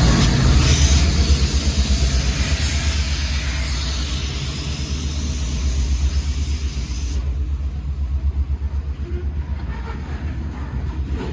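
New York & Atlantic Railway RS70 diesel locomotive pulling away, its engine a steady low rumble that slowly fades. A high hiss over it cuts off about seven seconds in.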